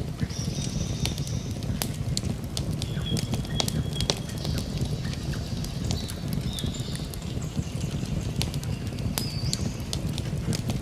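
Campfire burning, with frequent sharp crackles and pops over a low steady rumble. High, thin wildlife calls sound over it, each held for a second or two.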